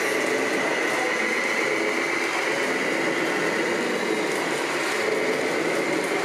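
Radio-controlled scale model trucks running: a steady mechanical noise with a constant high whine from the drive.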